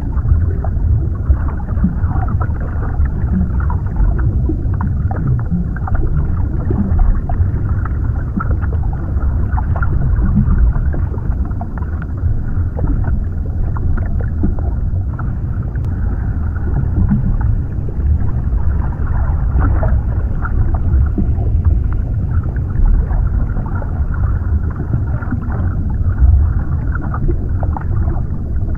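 Underwater ambience: a steady, muffled low rumble of water with faint crackles and ticks scattered through it.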